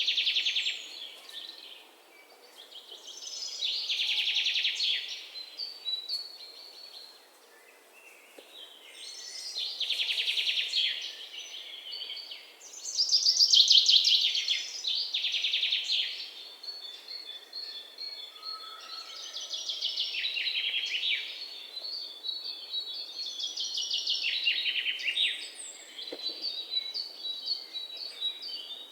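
Songbird singing: rapid trilled phrases, each a second or two long, repeated every few seconds, with thinner, steadier high notes near the end.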